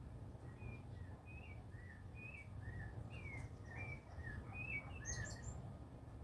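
A bird singing a run of about a dozen short, rapid chirps that alternate between two close pitches, followed by a few sharper, higher notes near the end. A steady low rumble runs underneath.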